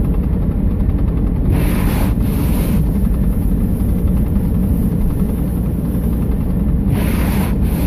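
GMC Envoy running steadily in four-wheel-drive low through snow, a continuous low rumble of engine and tyres heard from inside the cabin. Two brief hissing swishes come through, about 1.5 and 7 seconds in.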